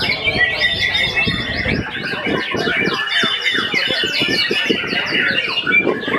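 White-rumped shama (murai batu) singing a fast, varied song of short sweeping whistled notes, several a second in repeated figures.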